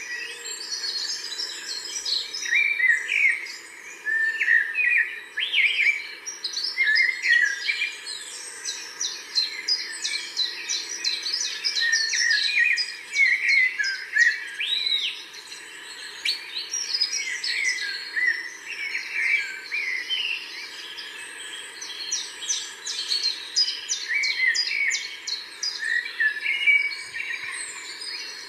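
Several songbirds singing and calling at once: a dense chorus of overlapping chirps, trills and short whistles with no break.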